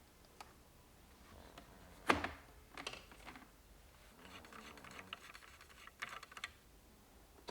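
Light clicks and knocks of things being handled, with short rustling or scraping stretches and one louder knock about two seconds in.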